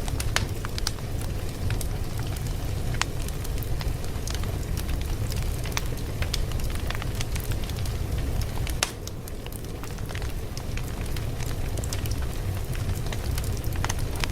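Fire crackling: a steady low rumble of flames with frequent, irregular sharp pops and snaps. The fire is briefly quieter about nine seconds in.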